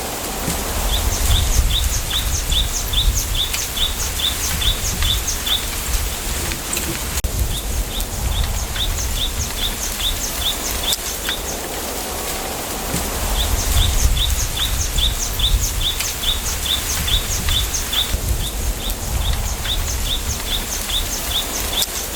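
A small bird singing phrases of short, repeated high notes, about four a second, each run lasting several seconds with brief pauses between. Under it, a steady rustle of wind through bamboo leaves with a low wind rumble.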